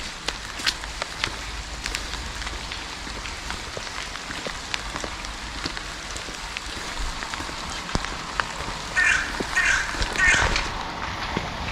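Steady rain with scattered sharp drips and taps of drops. Near the end come three loud, harsh caws about half a second apart, like a crow calling.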